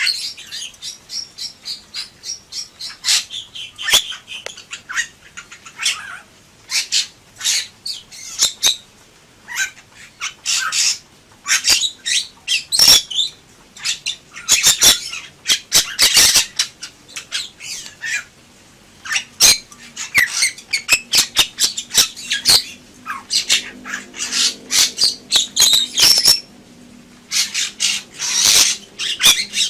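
Bali myna singing a rapid run of harsh squawks, chatters and sharp clicks with a few whistled notes, in dense bursts with short gaps.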